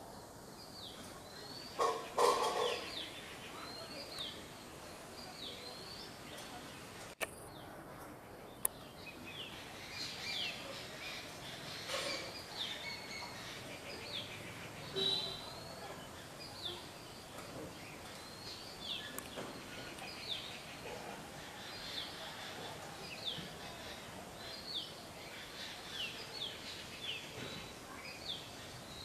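Birds chirping: many short, high, falling chirps repeating throughout, with a louder, fuller call about two seconds in and a sharp click about seven seconds in.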